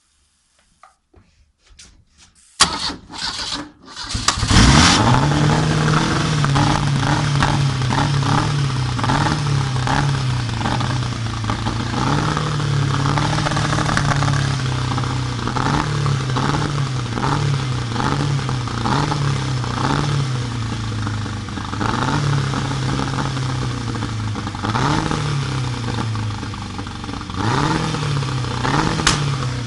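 Volvo Penta AQ145 marine engine, a 2.3-litre four-cylinder petrol, cranked by the starter and catching about four seconds in, then running at idle with the engine note wavering and dipping irregularly throughout: the engine is misfiring.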